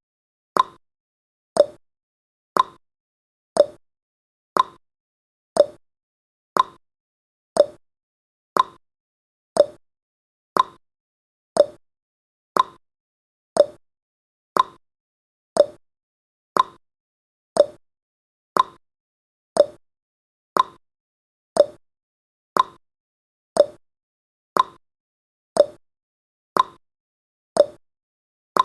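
Clock tick-tock sound effect, one short click every second, alternating between a higher tick and a lower tock.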